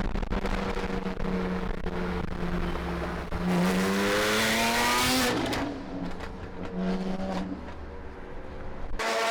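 Porsche 718 GT4's flat-six engine through a full titanium JCR exhaust under acceleration: the note climbs steadily in pitch from about three and a half seconds in to just past five, then falls away as the throttle comes off.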